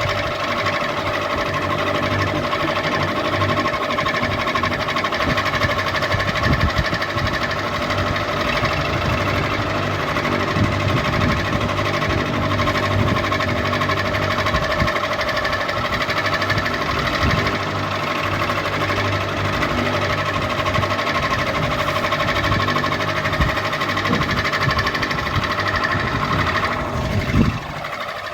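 Ceiling fan running steadily: a constant motor hum with a repeating mechanical clatter. Near the end a tone falls sharply in pitch.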